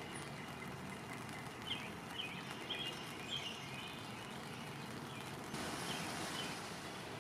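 Birds giving short chirps every second or so over a steady outdoor hiss, which turns brighter about five seconds in.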